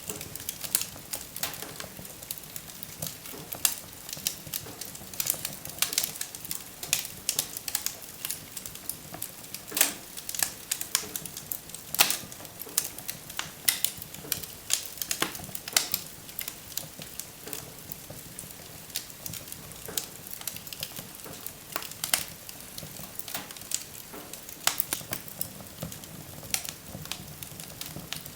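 Wood fire burning in a fireplace, crackling and popping with many irregular sharp snaps over a soft steady hiss.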